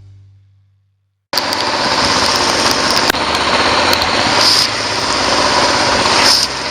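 Boat's outboard motor running under way in heavy rain, a steady engine hum under a dense rain hiss with scattered sharp taps; it cuts in suddenly about a second in, after a fading music chord.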